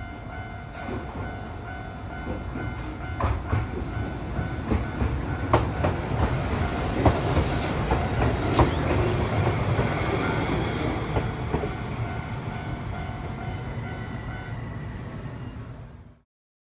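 Railroad crossing warning bell ringing in a steady repeating pattern while a Tokyu Setagaya Line train rumbles over the crossing, its wheels clacking on the rail joints. The train is loudest a little past the middle. The bell stops shortly before the sound cuts off.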